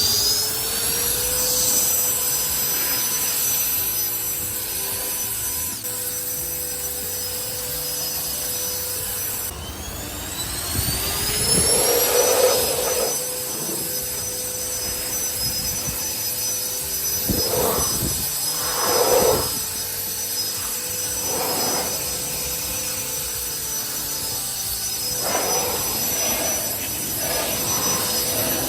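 Cordless handheld turbo ducted-fan blower running on its low setting, blowing water off a car's body with a steady high whine. It finishes winding up to speed at the start, drops out briefly about ten seconds in and spins up again with a rising whine. Several louder rushes of air follow as the jet is swept over the panels.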